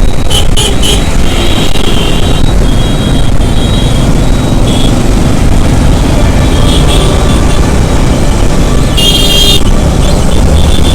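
Steady rumble of wind and road noise from riding a motorcycle in city traffic, with a few short horn beeps in the first second and a loud horn blast about nine seconds in.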